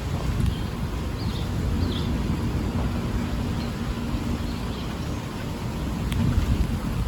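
Low rolling rumble of distant thunder in a severe thunderstorm, easing after a louder peak and then swelling again near the end. A few faint, short high chirps sound over it.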